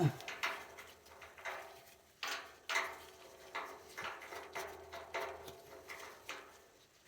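Irregular light clicks and knocks, a few each second, from metal fittings being handled by hand while the oil line valve at an oil boiler's fuel filter is reopened.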